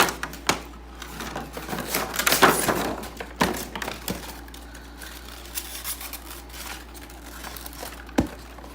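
Plastic toy packaging crinkling and tearing as it is unwrapped, with scattered clicks and a sharp knock near the end.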